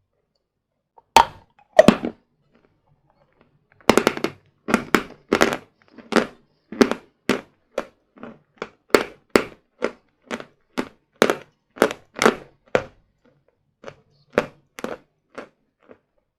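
Hard sawn Vatutin chalk being bitten and chewed close to the microphone: two sharp bites, then a run of loud crisp crunches at about two a second that thin out near the end.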